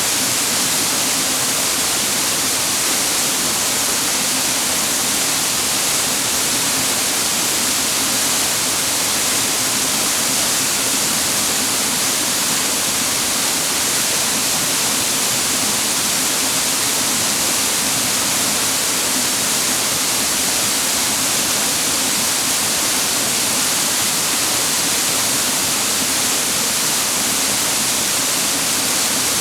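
Clear mountain water rushing over rocks, a steady, even hiss with no breaks.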